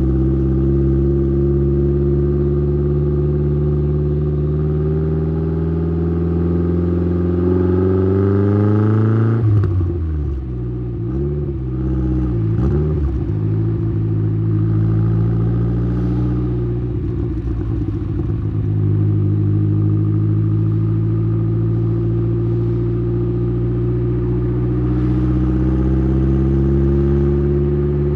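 Saab 9-3's turbocharged 2.0-litre four-cylinder B204 engine, tuned with a TD04-19T turbo and a Simons muffler, heard at the exhaust pipe. It climbs steadily in revs under acceleration for about nine seconds. Then the revs drop suddenly and waver for a few seconds before it settles into a steady run that rises slowly near the end.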